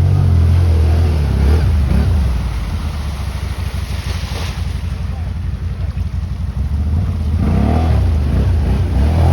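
Enduro dirt bike engine running, revs rising and falling around two seconds in, then chugging slowly at low revs before revving up again near the end.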